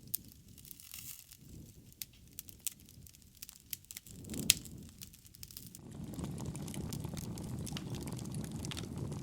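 Wood fire crackling, with scattered small pops and one louder pop about halfway. About two-thirds of the way in, a steady low rush of burning comes up under the crackle.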